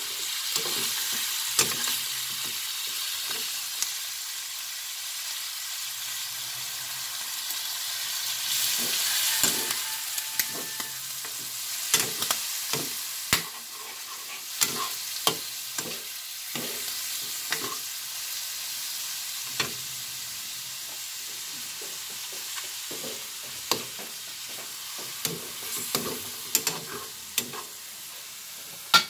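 Squid sautéing in a wok, sizzling steadily, while a metal spatula stirs it, with frequent sharp clicks and taps of the spatula against the pan.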